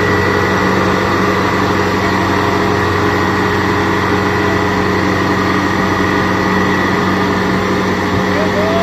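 Kubota DC70 Plus rice combine harvester's diesel engine running at a steady speed, with a thin high whine over its drone.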